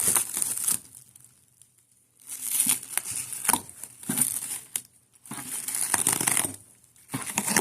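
Packaging being crinkled and torn open by hand in several separate bursts, with small clicks and snaps among them.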